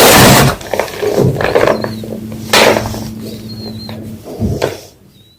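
Homemade gym chalk block being crushed, with loud crisp crunches: a big one at the start, another about two and a half seconds in, and smaller crumbling crunches between, over a low steady hum.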